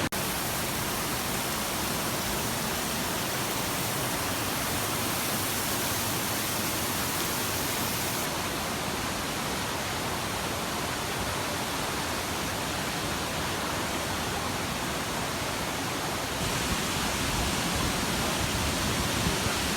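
Large waterfall: a steady, loud rush of falling water, its hiss shifting slightly in tone twice.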